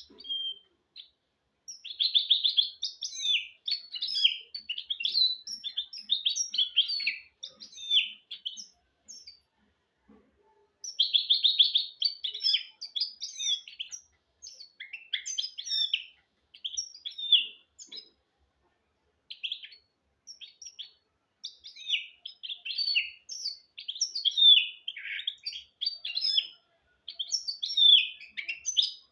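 Goldfinch × canary hybrid (mule) singing: long phrases of fast twitters, chirps and trills, the first two opening with a rapid buzzing trill, broken by short pauses about ten and about nineteen seconds in.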